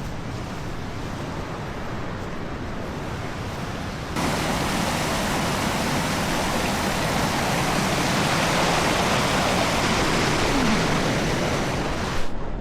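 Steady rushing water, an even roar with no rhythm that steps up in level about four seconds in.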